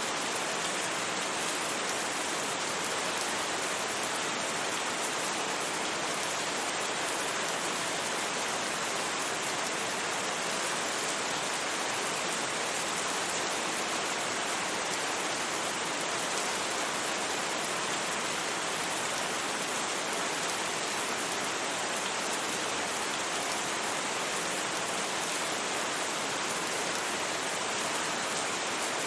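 Steady rain, a dense even patter that does not let up or change.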